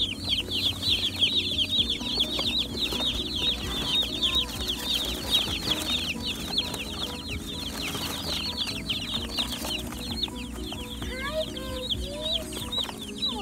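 A crowd of day-old Cornish Cross broiler chicks peeping without pause: many short, high cheeps that slide downward, overlapping into one continuous chorus.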